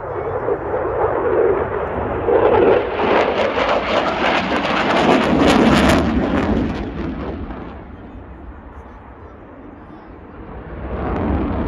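Eurofighter Typhoon's twin jet engines roaring as it passes the crowd: the roar builds to a peak about five to six seconds in, dies away, then swells again near the end as the jet comes round.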